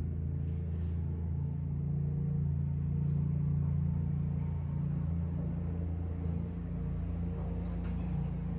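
A steady low-pitched mechanical hum with a few faint clicks.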